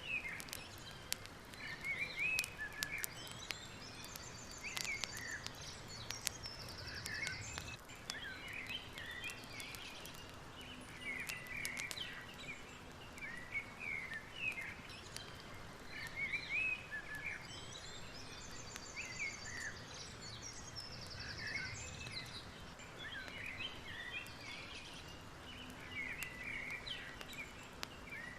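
Many small birds chirping and calling over a soft steady background hiss, with a buzzy trill twice and scattered faint clicks.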